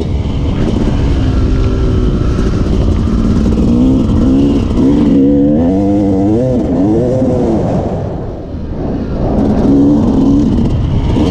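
Yamaha YZ250 two-stroke dirt bike engine revving up and down under a rider's throttle. Past the halfway point the revs swing quickly up and down; a little later the engine briefly drops off as the throttle closes, then picks up again.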